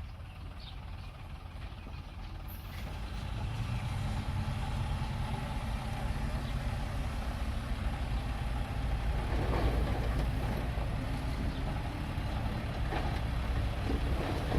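Diesel engine of a small earthmoving machine running, getting louder about three seconds in, with a few short knocks in the last few seconds.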